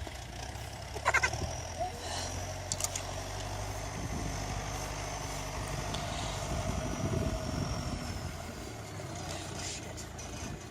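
A vehicle engine running steadily at idle, with a thin high whine that falls slightly over several seconds and a brief squeal about a second in.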